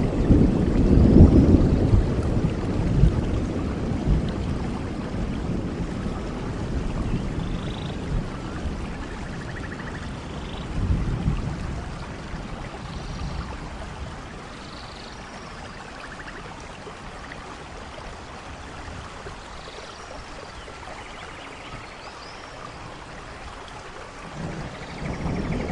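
Steady rain with a low rumble of thunder that dies away over the first dozen seconds; another roll of thunder begins near the end.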